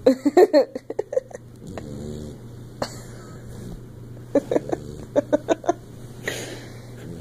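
Sleeping bluetick coonhound snoring, twice breaking into quick runs of short snorts and gasps about a second in and again around the middle.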